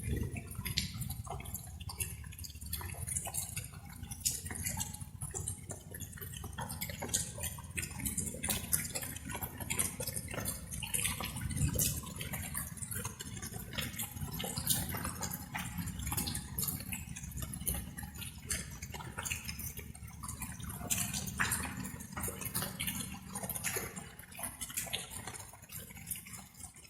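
Light rain: water drops pattering and dripping irregularly over a steady low rumble, fading out near the end.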